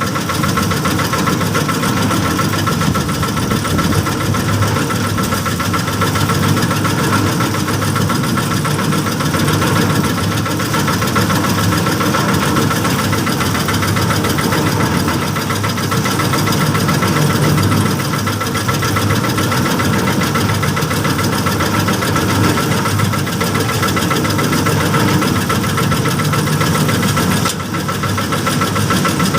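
Small engine of a bored-pile casting machine running steadily, a constant loud mechanical drone with a steady high whine over it; the level dips briefly near the end.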